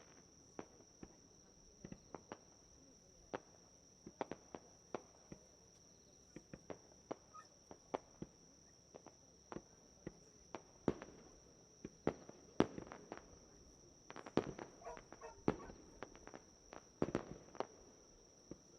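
Fireworks bursting: dozens of sharp, irregular cracks and pops, some in quick crackling clusters, with a steady high trill of insects underneath.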